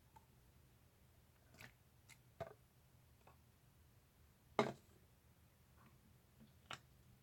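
Slime being handled, giving a few scattered short sticky clicks and squishes; the loudest comes about four and a half seconds in.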